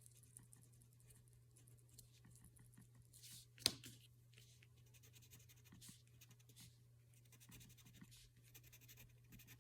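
Faint scratching of a crayon drawing on paper, a run of short strokes, with one sharper click a little over a third of the way in. Under it is a low steady hum.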